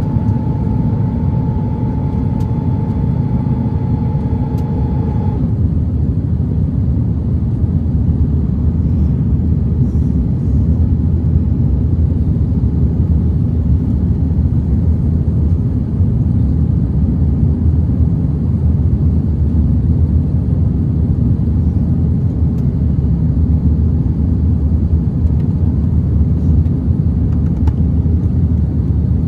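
Steady low rumble of an Airbus A330-900neo's Rolls-Royce Trent 7000 engines and airflow, heard inside the passenger cabin during descent. A steady mid-pitched whine runs under it and stops about five seconds in.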